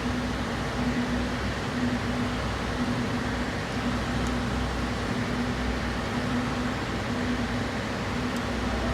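Steady machine hum in the background, with a low tone that pulses on and off about once a second.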